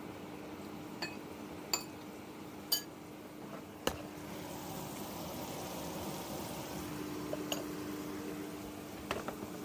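Kitchenware clinking: several sharp, separate clinks over a steady low hum, with a soft hiss rising after about four seconds.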